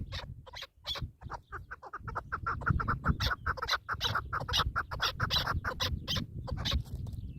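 Partridge calling: a fast run of repeated clucking notes that starts about a second and a half in, with sharp clicks and a low rumble underneath.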